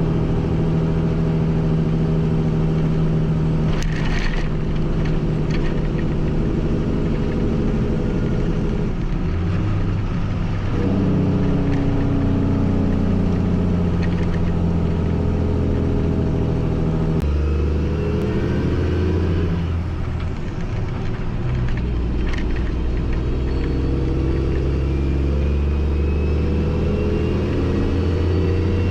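Mack semi truck's diesel engine running on the road, its pitch jumping several times as the driver shifts gears.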